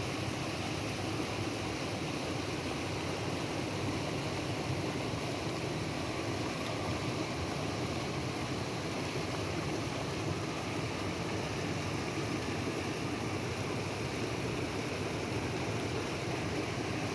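Waterfall's rushing water, a steady even roar of falling and flowing water.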